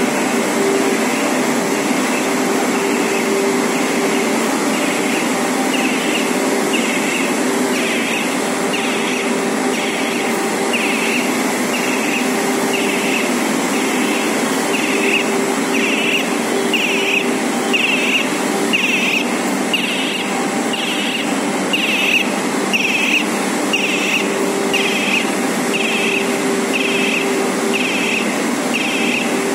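Nonwoven fibre production machinery running steadily with a constant hum, and a regular higher-pitched pulse about once a second.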